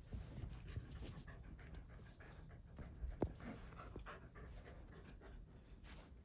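A dog panting close by, softly and unevenly, with one sharp click about three seconds in.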